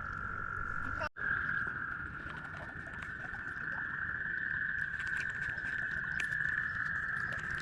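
A toad giving one long, steady trill, briefly cut off about a second in and then running on unbroken.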